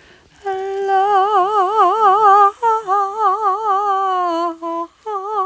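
A woman humming a wordless tune in long held notes with a wide, even vibrato. It starts about half a second in and breaks off briefly twice.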